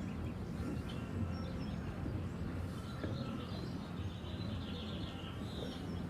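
Outdoor ambience: a steady low rumble, with a bird singing a rapid chirping trill from about the middle to near the end.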